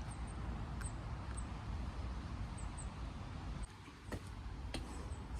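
Outdoor ambience on a handheld phone: wind rumbling on the microphone over a steady hiss, with faint, very high bird chirps and a few soft clicks.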